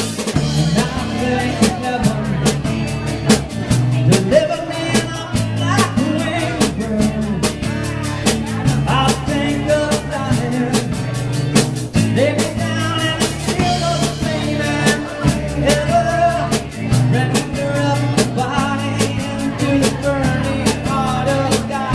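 Live rock band playing: drum kit keeping a steady beat with cymbal hits, bass and guitar, and a melodic line moving over the top.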